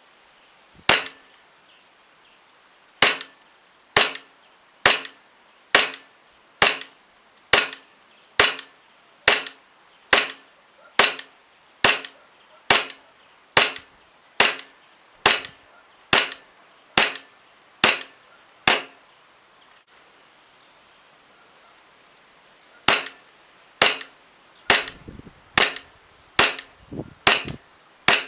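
Airsoft gas blowback Glock G17 pistol fired in single shots, each a sharp crack with the clack of the slide cycling, about one shot a second. After some twenty shots there is a pause of about four seconds, then the firing resumes a little faster.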